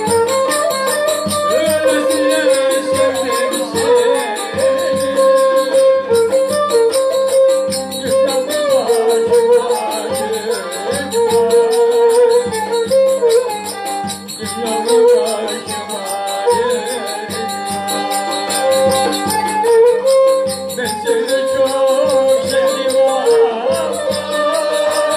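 Turkish folk dance music: an ornamented, wavering melody line over fast, rhythmic jingling percussion.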